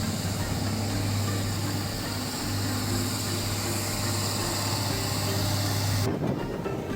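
Vehicle running on the road, heard from on board: a steady low engine hum under road and wind noise. The sound cuts abruptly to a thinner hiss about six seconds in.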